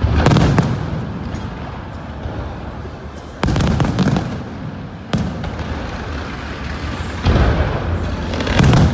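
Aerial fireworks bursting overhead: about six booms spread across several seconds, each followed by a long rumbling, crackling tail that fades away.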